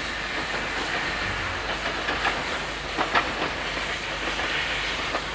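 British Rail train running over pointwork, its wheels clattering over rail joints and crossings with a steady rushing beneath. A few sharp clacks come about two to three seconds in, the loudest pair just after three seconds.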